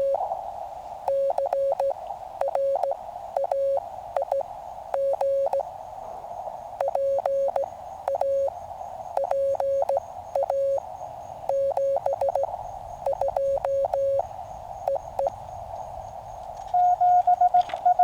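Morse code tones from a QCX mini CW transceiver: one station's keyed tone at a steady pitch over receiver hiss. About 17 seconds in, a louder, slightly higher keyed tone takes over, the operators' own sending heard as sidetone.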